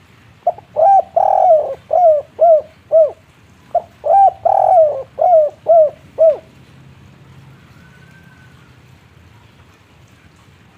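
Spotted dove cooing its 'kuk 3' song: two phrases about three seconds apart, each a couple of short coos, a longer drawn-out coo, then three short falling coos.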